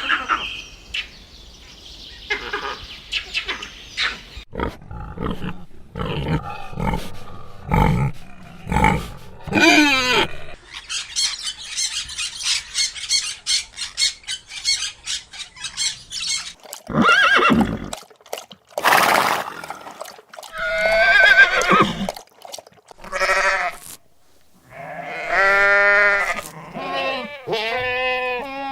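A series of farm-animal calls in quick succession, cut from one short clip to the next, with several different kinds of call; near the end come a few wavering pitched calls.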